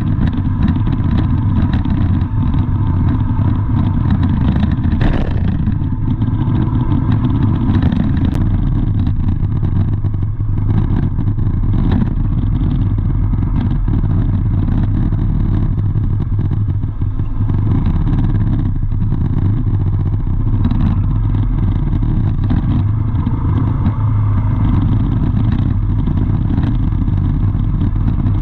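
Vehicle engine and road noise: a steady, loud, low rumble with a few short knocks.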